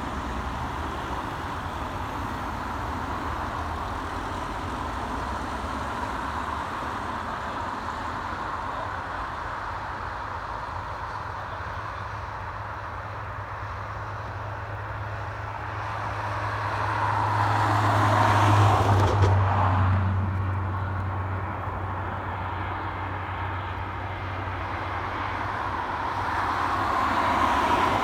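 Steady engine and traffic noise with a low hum. A vehicle passes close about two-thirds of the way through, swelling to a peak and falling away, and the noise swells again near the end.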